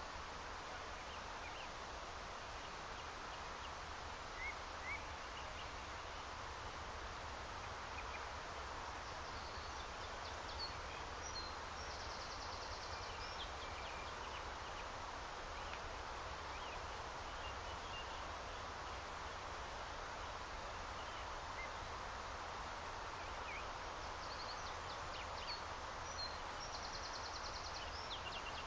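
Steady outdoor hiss with a songbird singing twice, each time a short phrase of high notes ending in a rapid trill, about a third of the way in and again near the end; a few scattered chirps come in between.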